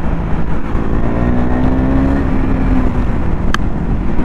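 Motorcycle engine running under way, its pitch rising a little and then easing off, over a heavy low rumble. A single sharp click about three and a half seconds in.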